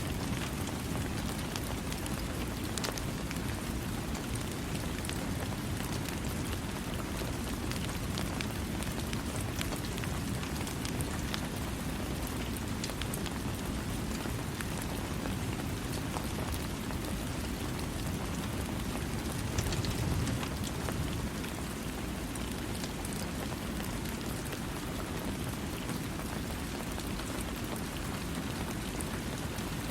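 Steady rain falling, with scattered faint ticks of drops throughout and a brief low rumble about twenty seconds in.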